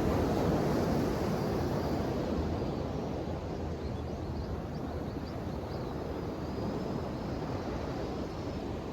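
Ocean waves washing ashore in a steady rush: one surge is loudest about a second in and eases off, with the next wave building near the end.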